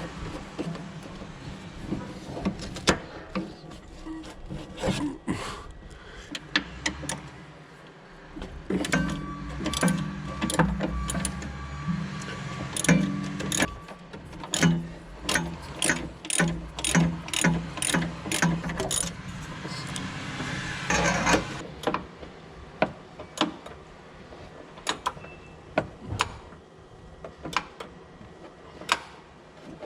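A long series of sharp clicks and knocks from hand-tool work on metal parts of a skid steer, at times in a quick even run, with a low steady hum under them through the middle stretch.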